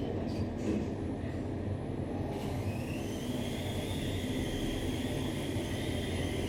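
Otis Gen2 ReGen machine-room-less traction elevator car travelling: a steady low rumble, with a high whine from the drive that rises in pitch a little over two seconds in and then holds.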